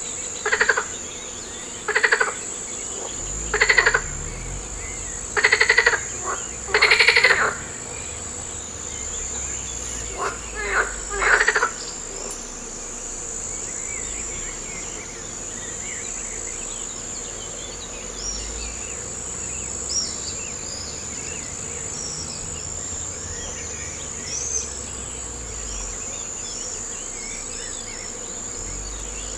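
A frog calling in loud pulsed croaks, about seven in the first twelve seconds, some longer than others, over a steady high-pitched insect drone. After that only faint scattered high chirps and a low wind rumble remain.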